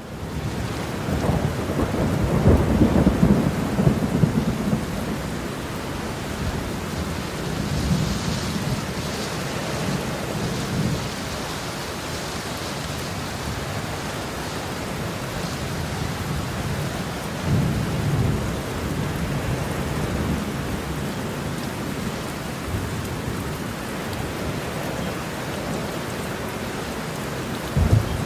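Heavy rain falling steadily with rolls of thunder: a long, loud rumble a couple of seconds in, then further, weaker rumbles around the middle and one near the end.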